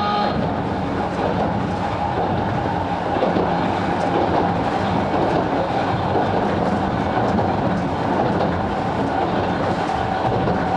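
Sangi Railway Hokusei Line 270-series narrow-gauge (762 mm) electric train heard from inside the car while running: a steady rumble of wheels and motors, with the wheels clicking over the rail joints.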